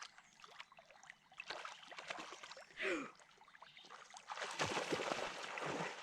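Splashing in shallow flooded marsh water: scattered small splashes, then sustained heavy splashing and sloshing over the last second and a half or so.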